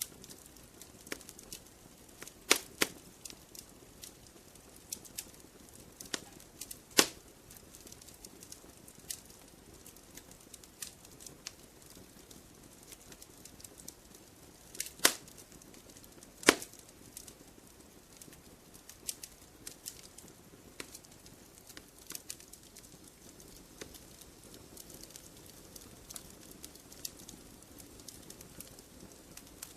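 Wood fire crackling in a fireplace: irregular sharp pops and snaps over a faint hiss, with louder pops about two and a half seconds in, about seven seconds in, and twice around fifteen to sixteen seconds in.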